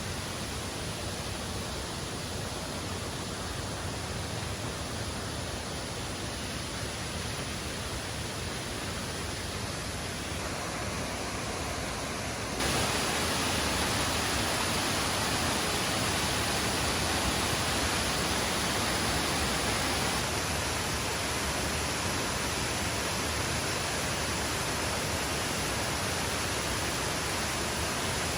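Waterfall rushing: a steady wash of falling water that jumps up in loudness about twelve seconds in and stays there.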